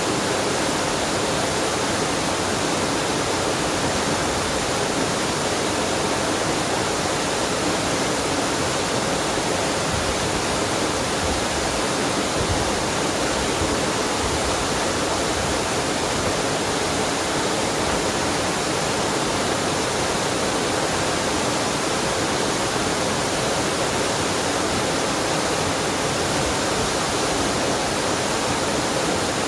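Steady rushing of water from a waterfall on a mountain stream, a constant full white-noise roar with no changes.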